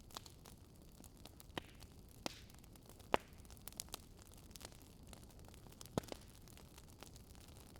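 Wood fire crackling: sharp, irregular pops and snaps over a low, steady hiss, with the loudest pops about three and six seconds in.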